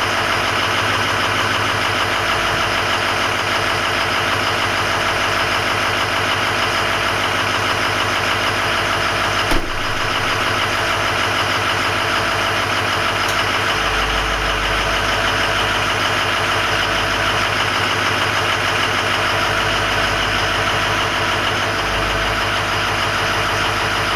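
Ford 6.0 Power Stroke V8 turbodiesel idling steadily on cold engine oil shortly after a cold start. A single sharp click sounds about nine and a half seconds in.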